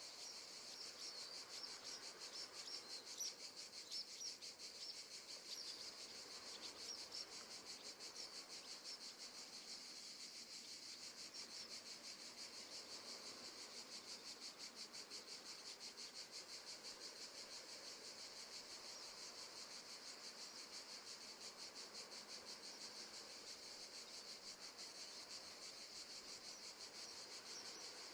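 Faint crickets chirping in a steady, rapid pulsing trill, with a few brief brighter chirps over it in the first several seconds.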